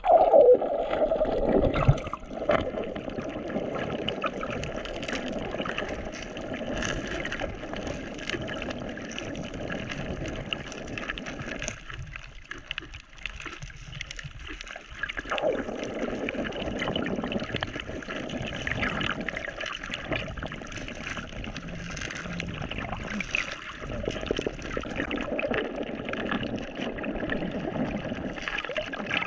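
Shallow sea water sloshing and gurgling around the camera as it is held in the water, louder in the first couple of seconds and dropping to a quieter spell about halfway through.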